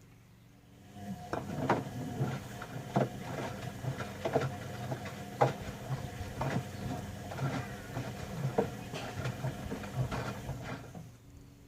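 Bauknecht WA 1460 washing machine drum turning during a wash cycle. The motor starts with a low hum about a second in, with irregular thuds and knocks of the laundry tumbling, and stops near the end as the drum pauses.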